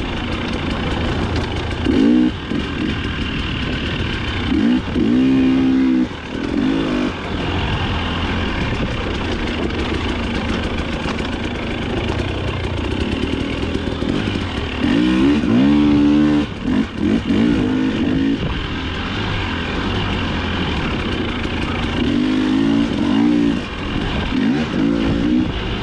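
Dirt bike engine running under load on a woods trail, its revs rising and falling in several surges as the throttle is opened and closed.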